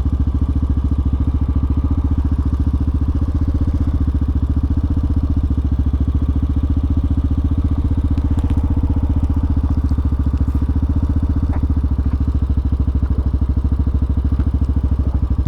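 Hawk 250 dual-sport motorcycle's single-cylinder engine running steadily as a fast, even low throb, with no change in pitch.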